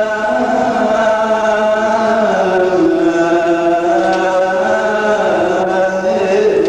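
Coptic Orthodox liturgical chant: a male voice holding a long melismatic passage on a single syllable, its pitch stepping slowly between held notes.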